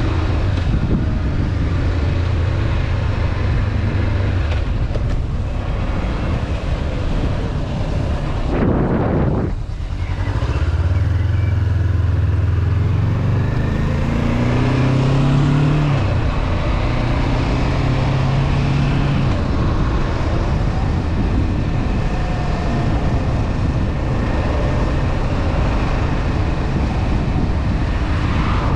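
Honda CB500F parallel-twin engine running under way, with wind rushing over the bike. About a third of the way in the engine note dips briefly, then climbs as the bike accelerates, and drops back with a gear change about halfway through before settling into steady cruising.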